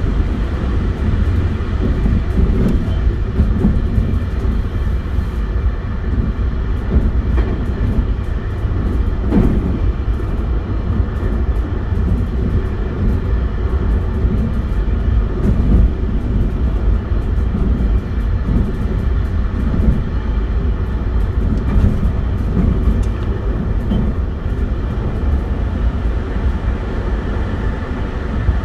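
Interior running noise of a JR West 271 series electric train at speed: a steady low rumble of wheels on rail, with an occasional knock from the running gear.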